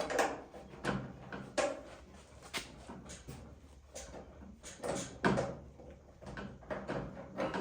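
A string of irregular knocks and clunks, a dozen or so, from hand tools and parts against the cab door and hinge of a square-body Chevy pickup being fitted; the loudest clunk comes about five seconds in.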